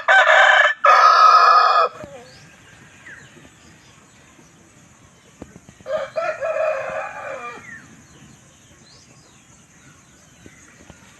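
Shamo and Asil gamefowl roosters crowing: one loud, close crow at the start, broken briefly partway through, and a second, quieter crow about six seconds in, with faint clucking between.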